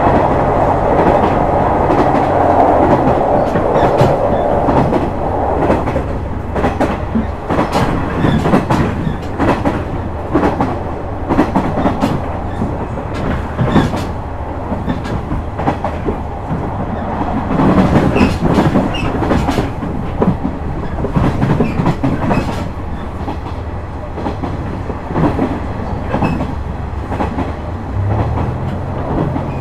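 Onboard running sound of a KiHa 126 series diesel railcar: the diesel engine drones steadily beneath the rumble of the wheels, with irregular rail-joint clicks throughout. The engine note shifts and strengthens near the end.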